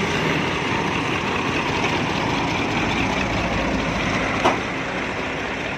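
Diesel tractor engine idling steadily, with one brief sharp sound about four and a half seconds in.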